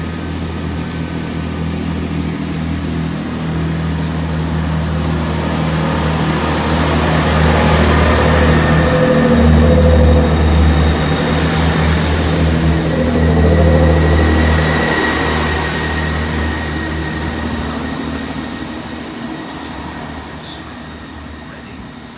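Class 166 Turbo diesel multiple unit pulling out under power, its diesel engines droning deep and working hard. The sound swells to a peak about halfway through, then fades as the train draws away.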